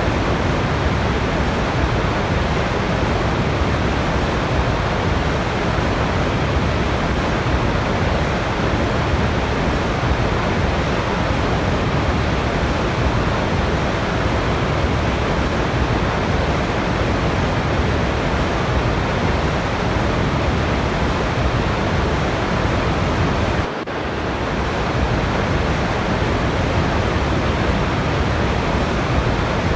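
Waterfall rushing: a steady, dense roar of falling water, with one brief dip in loudness late on.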